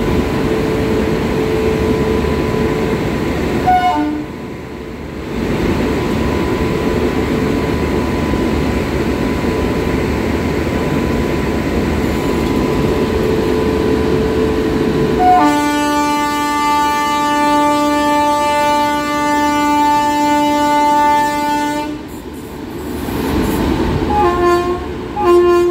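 Train running with a steady rumble; about fifteen seconds in its horn sounds one long blast lasting some six seconds, with a few short tones near the end.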